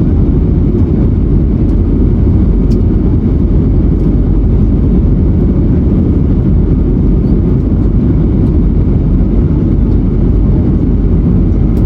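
Steady, loud cabin rumble of an Airbus A321neo in flight, heard from a window seat: the Pratt & Whitney geared turbofan engines running under power, with airflow noise over the fuselage.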